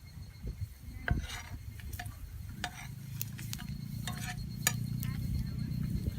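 Metal utensil clinking and scraping against a frying pan as food is stirred, in scattered sharp knocks. Background music fades in from about halfway through.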